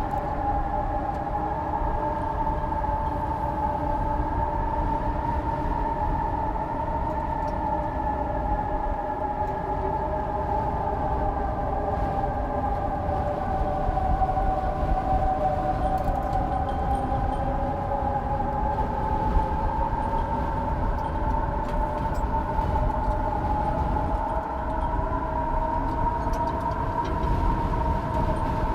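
Howling wind: a steady whistling tone that drifts slowly up and down in pitch, with fainter tones above and below it, over a constant low rumble.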